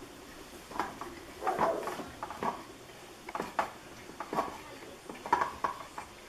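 Irregular clicks and knocks of small wooden birdhouse parts being handled and pushed together on a table.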